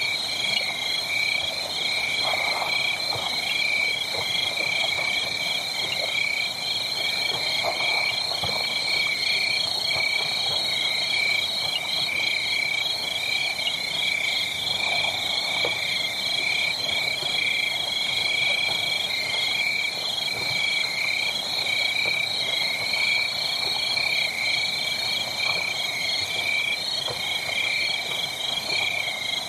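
A steady chorus of small calling animals, such as tree frogs and insects, trilling in rapid pulses at two high pitches without a break. Faint soft crackling sits underneath.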